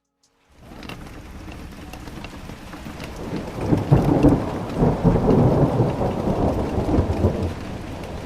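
Thunderstorm: rain falling steadily with thunder rumbling. It fades in from silence about half a second in, and the rumble swells to its loudest a few seconds later before easing off.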